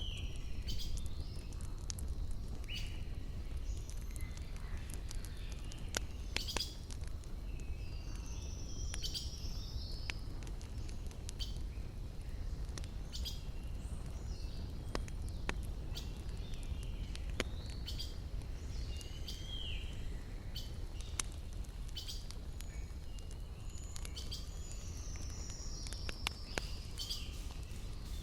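Wood campfire crackling, with scattered sharp pops over a steady low rumble, while small birds chirp repeatedly with short sweeping calls.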